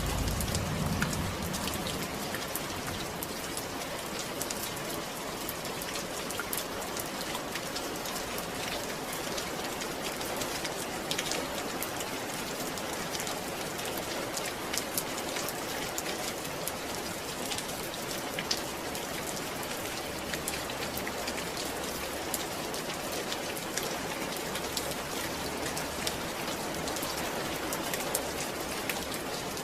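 Steady rain falling and pattering on a surface, many fine drop ticks over an even hiss.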